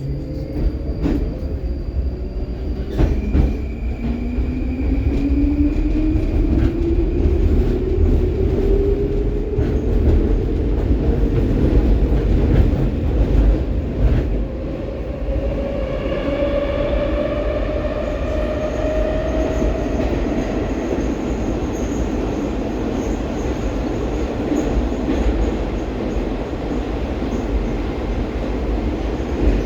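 'Baltiets' metro train running through a tunnel: a steady low rumble of wheels on rail with the traction motors' whine rising steadily in pitch as the train accelerates, then holding level, with higher whining tones joining about halfway through.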